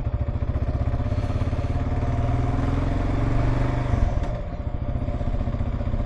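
Kawasaki KLR 650 single-cylinder engine running at low speed with an even, pulsing beat. Its note rises gently for a couple of seconds, then drops suddenly about four seconds in.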